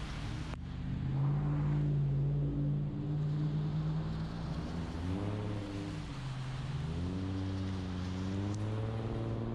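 Car engine running and accelerating through traffic in the rain. Its pitch holds steady at first, rises and falls around the middle, then climbs steadily in the last few seconds. A loud hiss in the first half-second cuts off abruptly.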